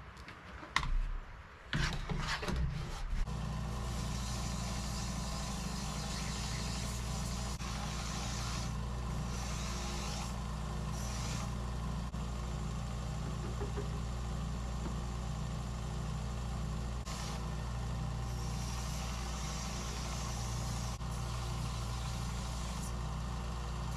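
A few handling knocks, then a belt sander starts about three seconds in and runs with a steady hum. The hiss of steel pieces pressed against the belt for cleaning grows louder at intervals.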